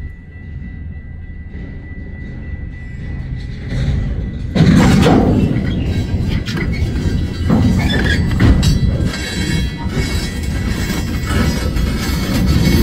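Freight train cars of an empty centerbeam flatcar's consist rolling slowly with a low rumble. About four and a half seconds in, a loud grinding and clanking of steel wheels, rails and couplers sets in, with high metallic squealing, as the train keeps moving after two of its cars have derailed.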